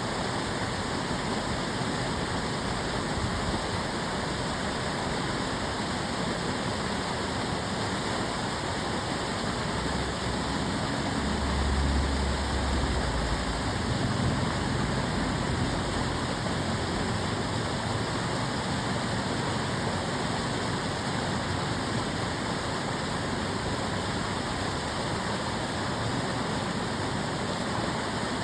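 Steady rush of water flowing along an aqueduct channel. A low rumble swells for a few seconds around the middle.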